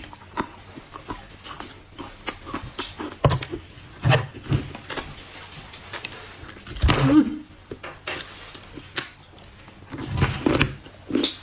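Irregular small clicks and taps, with a few louder dull thumps about 3, 4, 7 and 10 seconds in.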